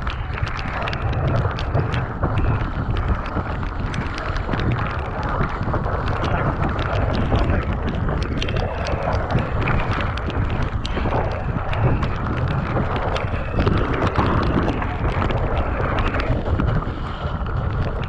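Mountain bike descending a wet, muddy trail, heard from a camera on the rider: wind buffeting the microphone, a heavy low rumble of tyres over mud and roots, and a constant clatter of small knocks as the bike rattles over the bumps.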